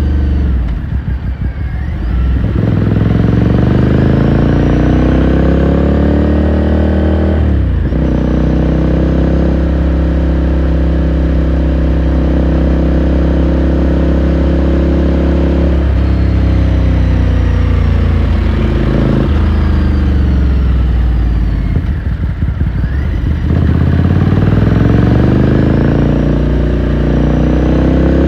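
Ducati Scrambler Sixty2's 399 cc air-cooled L-twin engine under way, recorded onboard. It eases off briefly, then pulls with a rising note and shifts up once about seven seconds in. It runs at steady cruise, backs off around twenty-two seconds in, then accelerates again.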